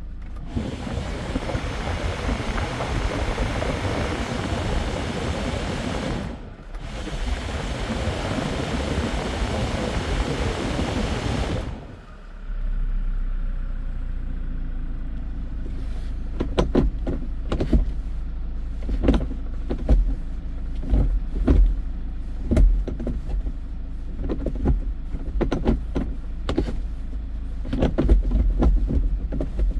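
Hyundai Porter II truck's engine running: a loud, even rushing noise for about twelve seconds, then a steady low idle with many irregular clicks and knocks over it.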